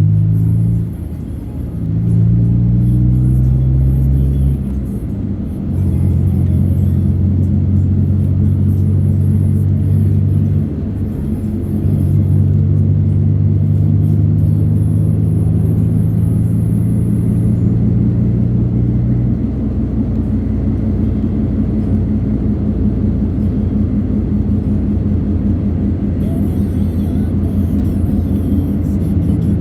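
Bass-heavy music playing on a car stereo during a drive, its low notes held for several seconds each, over the steady rumble of the moving car.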